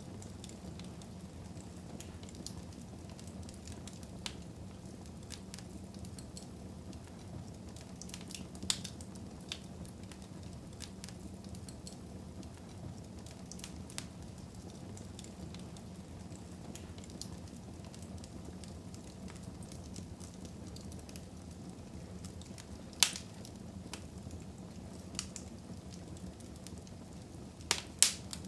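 Wood fire burning in a home fireplace: a steady low rumble with scattered crackles and occasional sharp pops, the loudest about 23 seconds in and near the end.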